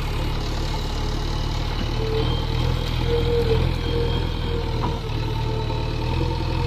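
Heavy diesel engine of the earth-moving machinery running steadily, a low continuous drone, with a faint tone rising over it from about two to four seconds in.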